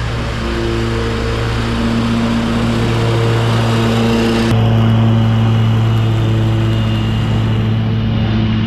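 Lawn mower engine running steadily under load with a deep, even drone. About halfway through, the high hiss drops away suddenly.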